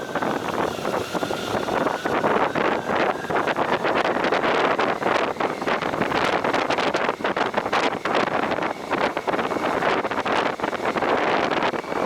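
Wind buffeting the microphone on a moving motorcycle, steady and gusty, with the noise of the ride underneath.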